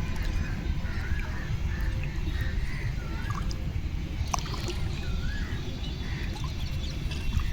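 A steady low rumble of outdoor ambience, with a bird repeating a short, wavering whistled call several times.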